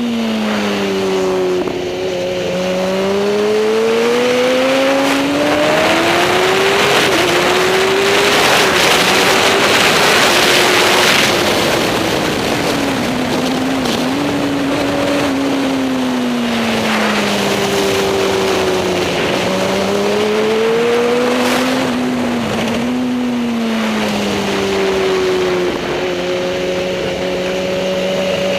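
Superbike engine running hard at race pace, its pitch climbing under acceleration and falling away again several times, with short dips where it shifts gear. A loud rush of noise swells up about a third of the way in.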